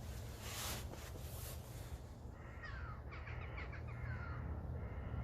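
Two soft rustles of hammock fabric as someone shifts in it, then faint crows cawing, a quick run of harsh calls lasting about two seconds in the middle.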